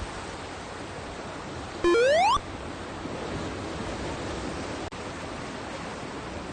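Steady noise of sea surf and wind. About two seconds in, a loud, clean electronic beep rises quickly in pitch for about half a second, then cuts off.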